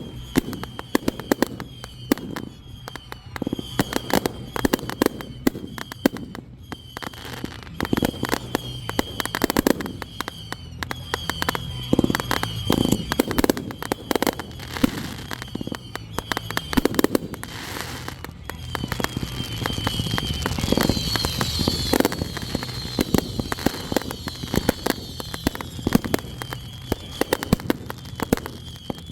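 Fireworks display: a continuous stream of bangs, pops and crackling, densest about twenty seconds in.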